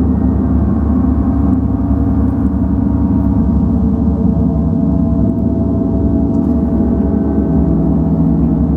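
Gong played continuously, a loud, steady wash of many overlapping sustained tones, heaviest in the low range.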